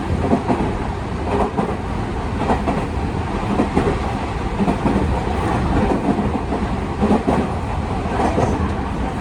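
Tokyu 5000 series commuter train running at speed, heard inside the car: a steady rumble of wheels on rail with irregular clatter and knocks from the track.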